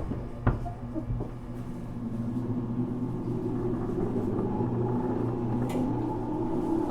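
Running sound inside the motor car of a JR Kyushu 415 series 1500-subseries electric multiple unit, a car singled out for an abnormal noise. A steady motor hum carries a whine that slowly rises in pitch as the train gathers speed, with a sharp click about half a second in.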